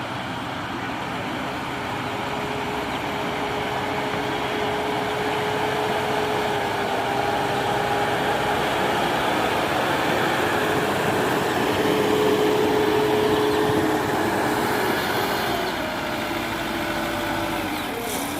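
JCB Eco Xpert backhoe loader's diesel engine working steadily. It gets louder through the middle and drops back near the end.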